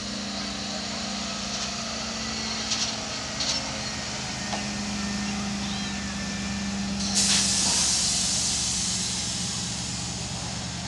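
A 2001 Chevy pickup's small-block V8 running hard under load, with a steady engine note. About seven seconds in, a sudden loud hissing rush comes in and slowly fades.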